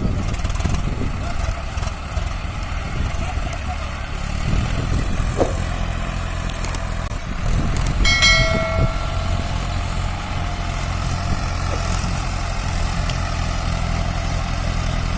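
Diesel farm tractor engine running steadily under a heavy trailer load of sugarcane. A horn sounds once, for about a second, around eight seconds in.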